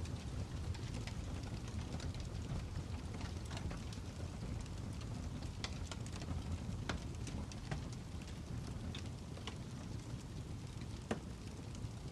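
Fire crackling: a steady low rumble with irregular sharp pops and snaps scattered through it.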